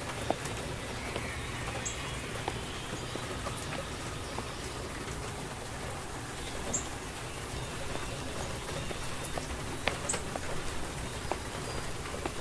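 Steady rain-like hiss, with scattered faint clicks and ticks through it.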